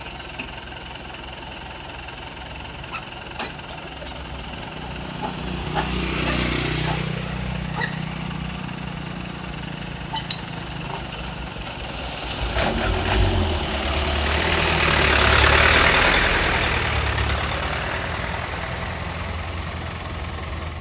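Diesel dump truck engine running, its pitch climbing about five seconds in. A louder rushing noise then swells and fades over several seconds, with a few sharp clicks along the way.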